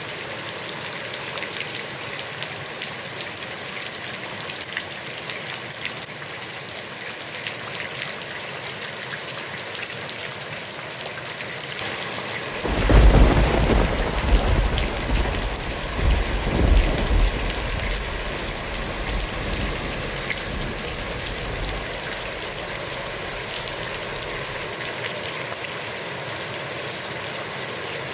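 Heavy rain falling steadily on a pond. About twelve seconds in, a clap of thunder breaks in and rolls on in a second swell before fading out several seconds later.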